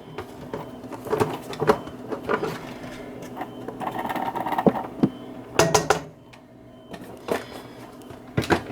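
Irregular light clicks and knocks of kitchen containers and cookware being handled, with a quieter stretch about two-thirds of the way through.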